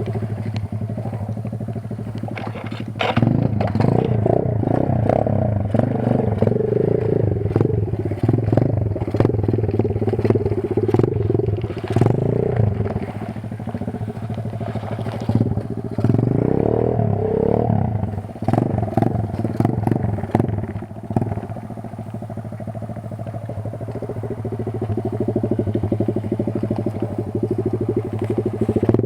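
Kayo 140 pit bike's single-cylinder four-stroke engine running, rising and falling in revs in repeated bursts from about three seconds in as the bike works its way through a creek, with clattering and scraping of stones. The engine settles to steadier, lower running near the end.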